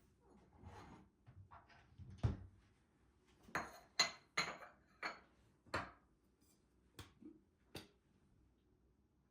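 Dishes and utensils being handled in a kitchen: a run of light clinks and knocks, with one duller thump a little over two seconds in, then a quick cluster of sharper clicks that spaces out toward the end.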